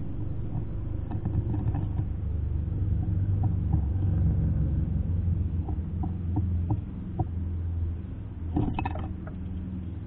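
A low steady rumble, over which a bird feeding at a metal seed dish makes a few light pecking clicks in the middle and a short flutter near the end as it takes off.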